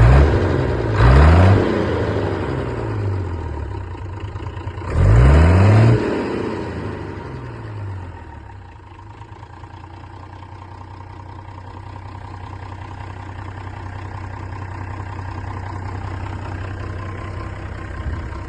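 Nuffield 10/42 tractor's BMC 5.1-litre diesel engine revved in quick throttle blips: a short one at the start, one about a second in and a bigger one around five seconds in, each rising and dropping back. After that it settles to a steady idle.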